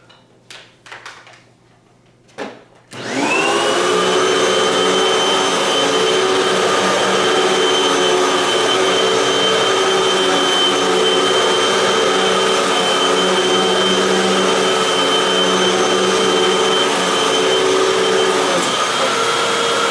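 A few clicks, then the Hoover WindTunnel 3 Max Pet Plus upright vacuum is switched on about three seconds in, its motor spinning up quickly to a steady high whine. It runs loud and steady on carpet with its height set lower so the brushroll digs into the pile.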